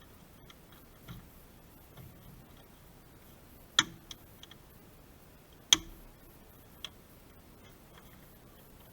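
A few scattered sharp clicks and taps, the two loudest about two seconds apart in the middle, with no engine running.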